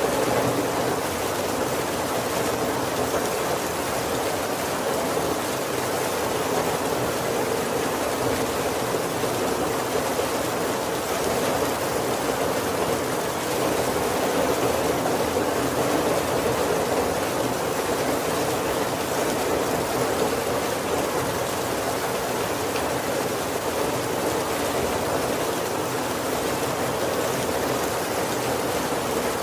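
Heavy rain falling steadily on a roof: an even, unbroken rushing hiss with no thunder.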